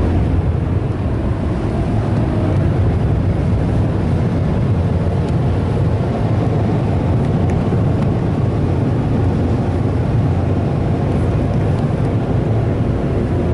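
Ryko Softgloss Maxx 5 car wash dryer blowers running, a loud steady rush of air blasting onto the car from the side vents, heard from inside the car.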